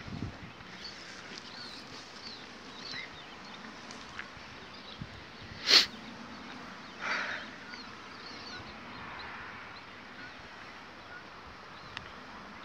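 Small birds chirping over quiet outdoor ambience, with a single sharp click about six seconds in and a brief louder sound a second after it.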